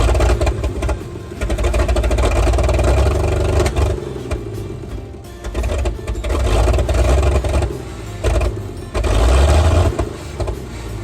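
The carbureted gasoline engine of a 1957 FWD 4x4 backhoe truck running after decades laid up, revved up and let down in several surges.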